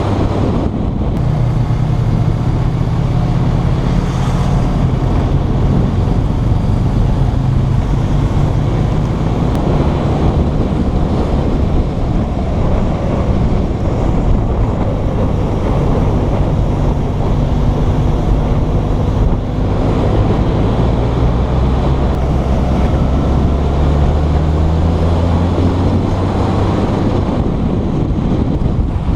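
Motorcycle engine running while riding, its pitch stepping up and down several times with the throttle and gear changes, under heavy wind noise on the microphone.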